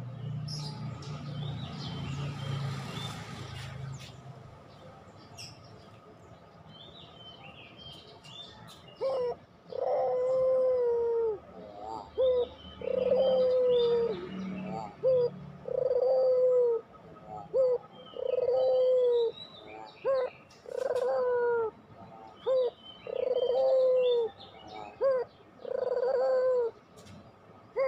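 Puter pelung, a long-voiced domestic Barbary dove, cooing over and over from about nine seconds in: each coo is a short note followed by a drawn-out, slightly falling note, repeated every second and a half to two seconds. Small birds chirp higher in the background, and a low rumbling noise comes before the cooing starts.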